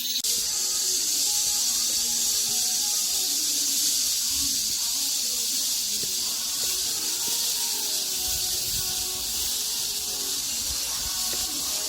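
Cicadas singing in a steady, high-pitched, hiss-like drone, with low thumps on the microphone in the last few seconds.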